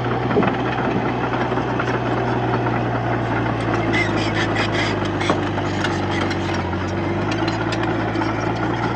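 Komatsu D31P bulldozer's diesel engine running steadily, with scattered metallic clanks from the machine working.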